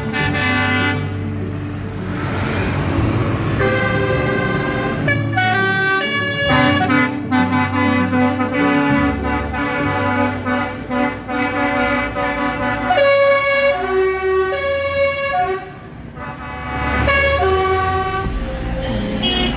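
Vehicle horns tooting at several pitches over the steady rumble of passing tractor engines.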